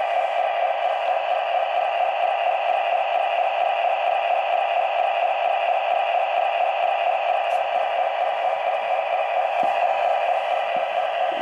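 MTH Proto-Sounds 1 sound system in an O-scale EMD F3A model locomotive playing its diesel engine idling sound through the model's small speaker: a steady drone with almost no bass.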